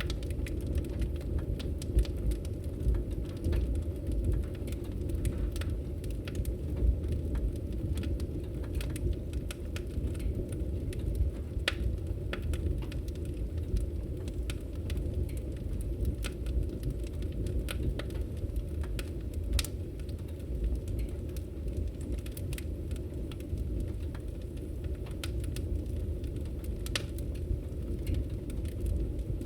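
Wood fire in a fireplace crackling: many small, irregular pops and snaps over a steady low rumble.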